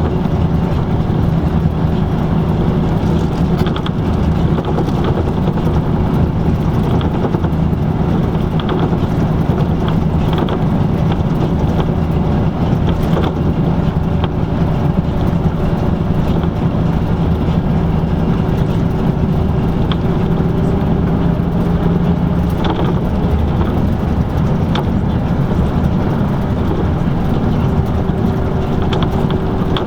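LiAZ-5250 bus on the move, heard from inside the cabin: a steady engine drone over road noise, with scattered light rattles and clicks.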